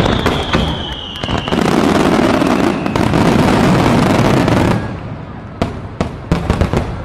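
Fireworks going off: a dense crackling barrage for the first four to five seconds with a whistle falling in pitch during the first second and a half, then a handful of separate sharp bangs near the end.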